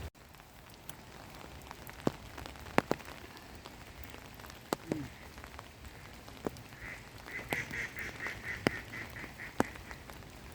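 Rain falling, with sharp single taps of heavy drops every second or so. Between about seven and ten seconds in, a bird gives a rapid run of short repeated calls.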